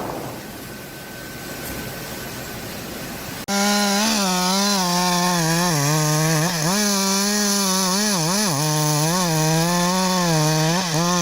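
Two-stroke chainsaw running at high revs while cutting wood, its pitch wavering up and down under load. It starts abruptly about three and a half seconds in, after a softer steady hiss.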